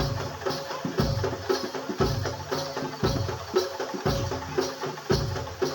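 Kuda lumping accompaniment music: drums keep a heavy low beat about once a second, with lighter strikes between and a repeated pitched tone over them.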